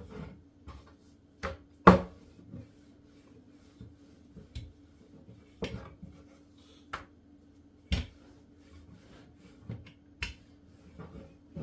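Irregular sharp clicks and light knocks, about a dozen, the loudest about two seconds in, over a faint steady hum.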